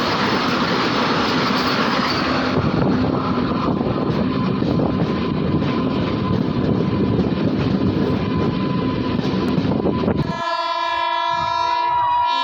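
A train rumbling across a railway bridge with wheel clatter, then, about ten seconds in, the rumble stops abruptly and a train horn sounds: a long, steady multi-tone blast.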